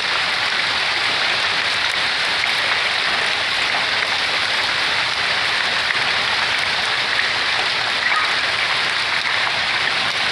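Pea- to marble-sized hail pouring down with rain, a dense, steady patter of hailstones striking hard surfaces.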